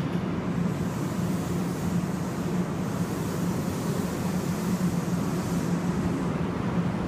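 Tokyu 8500 series electric train pulling out of the station, a steady running noise with a low hum as the cars roll past close by.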